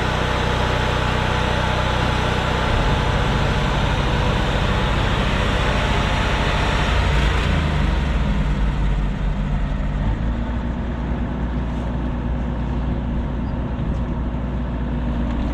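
Diesel engine of a heavy machine with a blade and grapple running steadily while being positioned, its engine note changing a few times.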